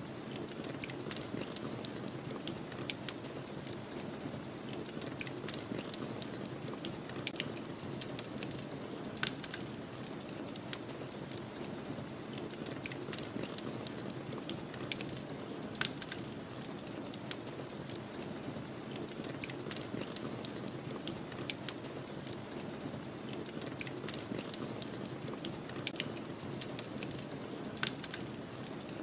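Wood fire crackling, with irregular sharp snaps and pops several times a second and a few louder pops scattered through. Beneath it runs a steady low rush of snowstorm wind.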